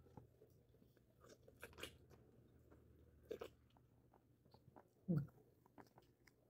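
Quiet chewing and wet mouth sounds of a person eating juicy orange segments, with small clicks and smacks; a brief, louder low sound about five seconds in.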